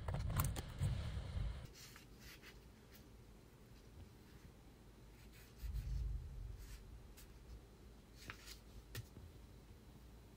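A pencil scratching lightly on paper as a sewing pattern is drafted, quiet, with scattered small ticks. Low handling thumps fill the first couple of seconds, and a soft thump comes about six seconds in.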